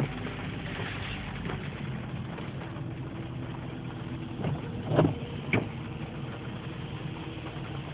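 Car engine idling steadily, heard from inside the cabin in traffic as a low hum under a steady noise bed. Two brief knocks come about five seconds in, half a second apart.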